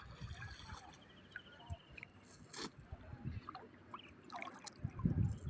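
Faint sloshing and dripping of river water, with scattered small knocks and clicks. A short, high rattling trill comes a little after one second in, and louder low thumps near the end.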